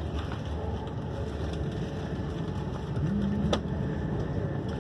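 Steady rumble and rushing of a railjet passenger coach running along the track, heard from inside the coach, with one sharp click about three and a half seconds in.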